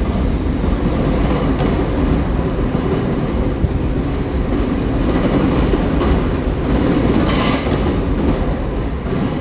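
Two coupled GWR Class 802 IET units running past at low speed, a steady rumble with wheels clattering over the rail joints. A brief burst of higher hiss comes about seven seconds in.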